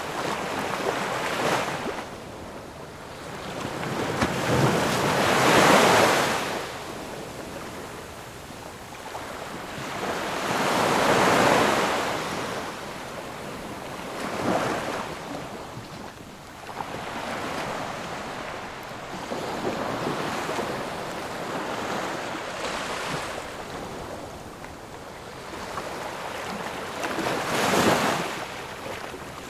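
Ocean waves breaking on the shore, each wave a rising rush of surf that peaks and washes away, coming every few seconds; the biggest breakers come about six seconds in, around eleven seconds and near the end.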